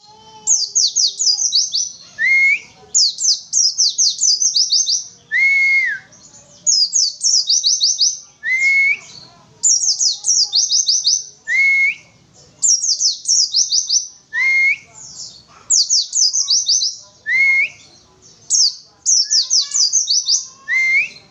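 White-eye (pleci) singing: loud, rapid runs of high, down-slurred 'witwitwit' notes, each run about a second long and repeated after short pauses. A lower slurred whistle recurs between the runs about every three seconds.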